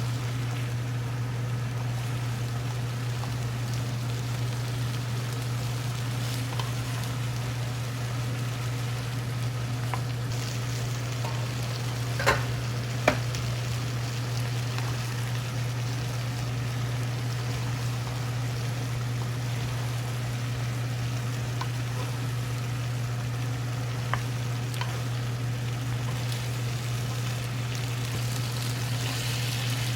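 Food sizzling in a frying pan over a steady low hum, with two sharp clicks about twelve and thirteen seconds in and another near twenty-four seconds.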